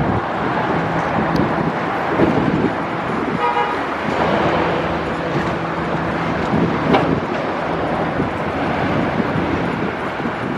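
Steady street traffic and engine noise, with a short car horn toot about three and a half seconds in and a single sharp knock near seven seconds.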